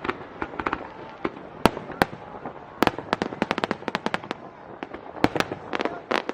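Aerial fireworks bursting: a few single loud bangs among runs of rapid crackling, the crackle thickening into a dense patter about three seconds in and again near the end.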